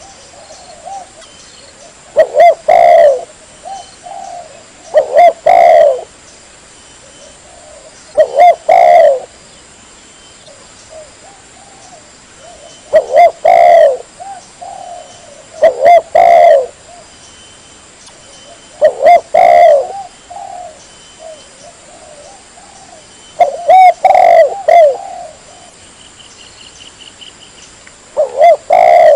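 Spotted dove (tekukur) cooing: a loud, clean phrase of a few quick coos repeated about every three seconds, eight phrases in all, with quiet gaps between. This is the bird's territorial song as used for a lure call.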